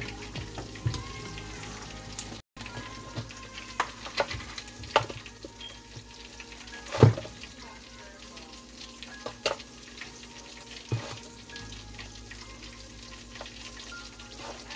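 Steady sizzle of frying food on the stove, with scattered sharp taps and knocks as seasoning containers are handled over the dish; the loudest knock comes about seven seconds in.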